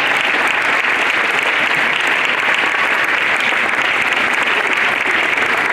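School assembly audience applauding steadily, a dense patter of many hands clapping, fading out soon after.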